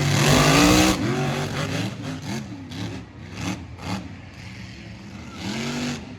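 Two mega trucks' engines at full throttle during a side-by-side drag run, revving up and down repeatedly as they race. The run is loudest at the launch and swells again briefly near the end.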